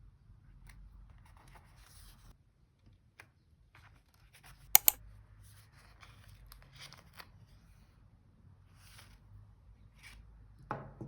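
Close, quiet handling of paper and stationery: light rustles and small clicks, with a sharp double snap about five seconds in and a softer knock near the end.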